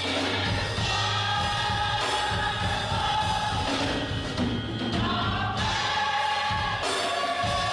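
Gospel choir singing with instrumental accompaniment, held sung notes over a steady bass.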